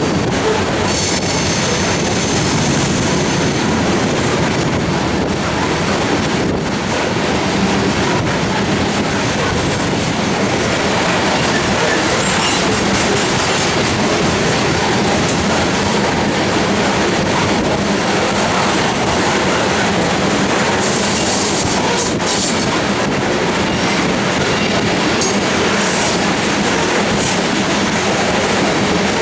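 Loaded coal hopper cars of a freight train rolling past: a steady loud rumble and clatter of steel wheels on rail, with a thin high wheel squeal now and then.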